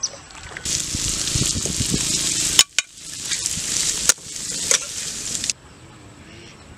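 Pieces of fish and chilies frying in a wok, sizzling loudly as they are stirred, in short clips cut together with abrupt breaks; the sizzle cuts off suddenly about five and a half seconds in, leaving quiet outdoor ambience.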